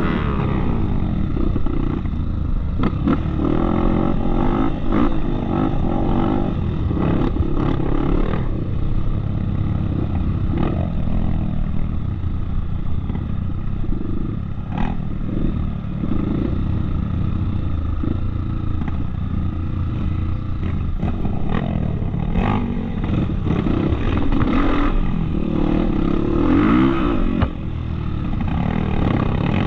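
Off-road trail motorcycle engine running and revving up and down as the bike rides, with frequent knocks and clatter.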